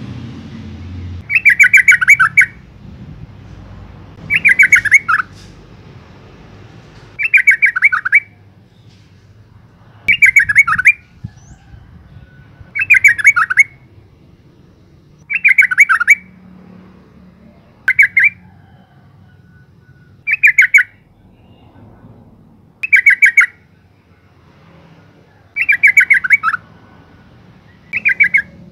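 Female yellow-vented bulbul calling: short bursts of rapid chattering notes, each slightly falling in pitch, repeated about every two to three seconds, about eleven times.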